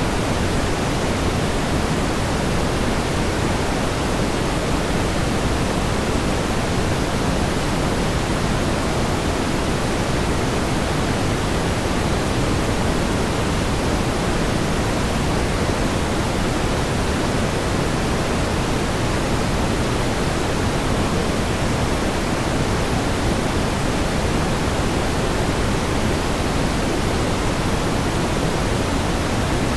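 Steady pink noise: an even, unchanging hiss, heavier in the low end than the high.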